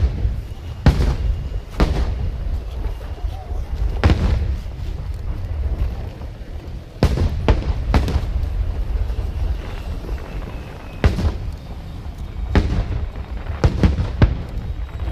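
Fireworks bursting overhead: about a dozen sharp booms at uneven intervals over a continuous low rumble.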